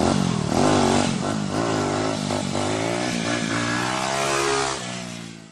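Motorcycle engine revving, its pitch rising and falling repeatedly, then fading out near the end.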